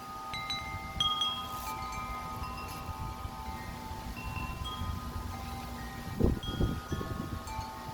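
Several metal tube wind chimes ringing over and over in strong gusty wind, with wind buffeting the microphone; a stronger gust comes through about six seconds in.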